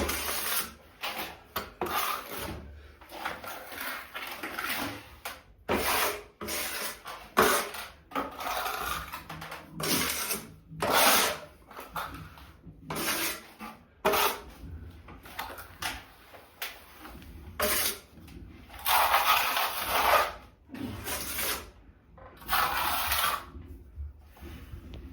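A hand tool scraping against a surface in irregular rasping strokes of varied length, the longest about a second and a half near the end.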